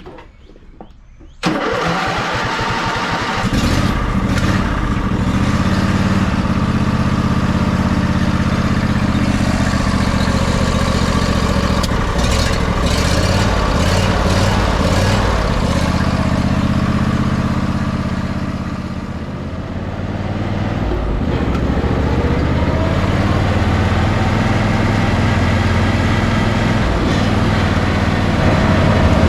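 Riding lawnmower engine, on a mower converted into a utility vehicle, starts about a second and a half in and runs steadily as it is driven. It eases off briefly about two-thirds of the way through, then picks back up.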